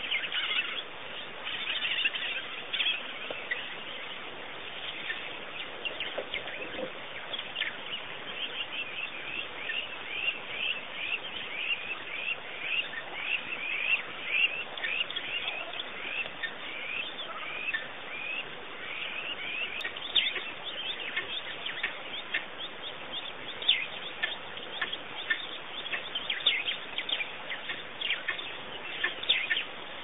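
Small birds chirping: a dense, continuous run of short, high chirps, several a second, thickest in the middle.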